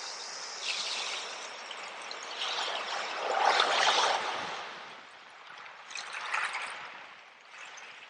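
Sea waves washing onto the shore: a hiss of moving water that swells to its loudest a little past the middle, rises again more weakly about six seconds in, then dies away.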